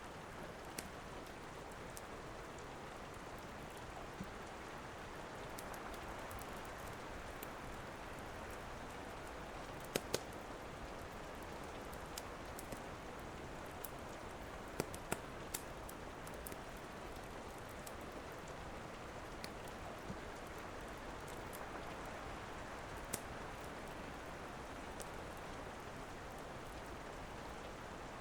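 Steady rain with a few sharp pops and snaps of a crackling wood fire scattered through it, the loudest pair about ten seconds in.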